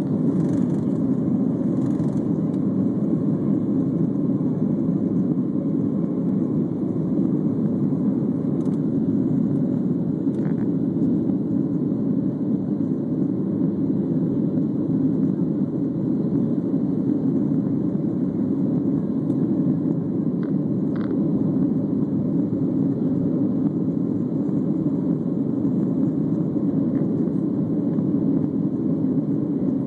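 Steady low roar of jet engines and rushing air heard inside an airliner's cabin in flight, with a couple of faint ticks.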